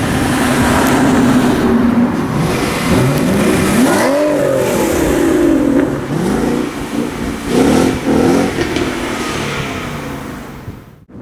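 Supercar engine revving and accelerating, its pitch climbing and dropping several times, then dying away near the end.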